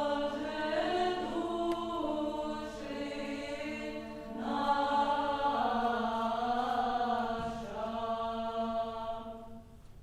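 Unaccompanied voices singing a slow Old Russian chant over a steady held low drone note, in two long phrases with a short breath between them; the singing ends near the end.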